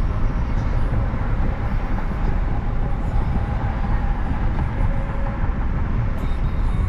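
Steady low rumble of road and tyre noise from a moving Tesla, with faint steady tones above it.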